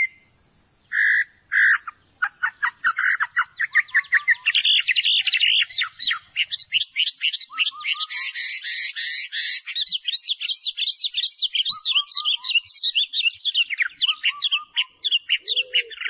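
A bird singing a fast, continuous series of sweeping chirp notes that rise and fall several times a second, starting after two short calls. A few lower falling notes from another bird cut in now and then, and a steady high hiss sits under the first several seconds.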